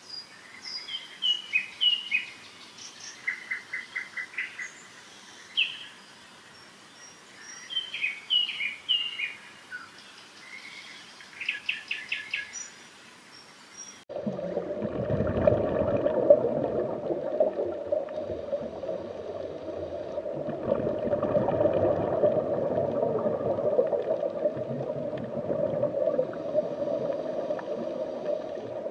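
Small birds calling with short chirps and quick trills. About halfway through there is a sudden cut to a louder, continuous sound with a steady mid-pitched drone and a low rumble.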